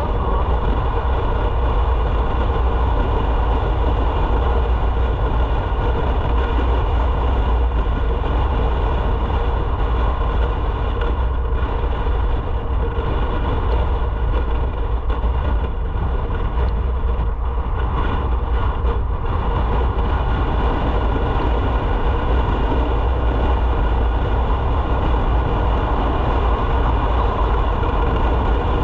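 Motorcycle under way at a steady speed: the engine's steady running note under heavy, constant wind rumble on the microphone.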